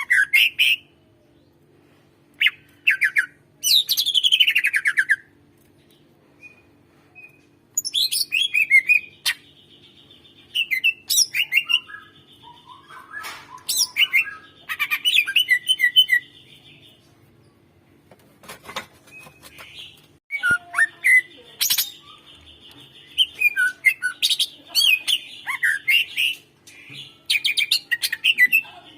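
Cucak ijo (green leafbird) singing in loud bursts of varied chirps, whistled glides and buzzy trills, with short pauses between phrases.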